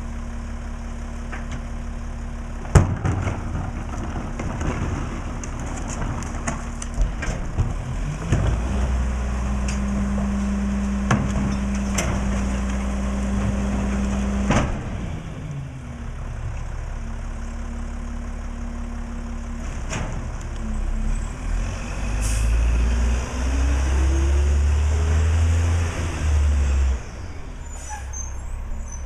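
Mack LE garbage truck's diesel engine idling, with several sharp bangs of trash and cans being handled. The engine speeds up twice for stretches of several seconds, as when the hydraulics run, and there is a short air-brake hiss about three quarters of the way through.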